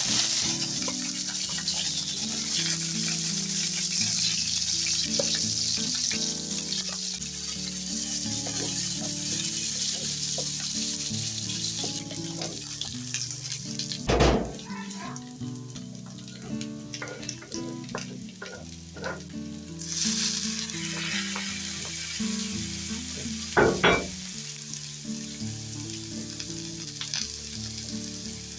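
Food sizzling as it fries in hot oil, the sizzle dying down about twelve seconds in and coming back about twenty seconds in. Two sharp knocks, one about halfway through and one near the end, are the loudest moments, with soft music underneath.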